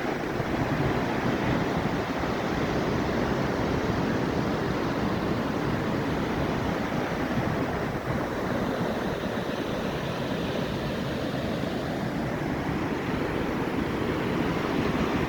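Atlantic Ocean surf: a steady wash of breaking waves.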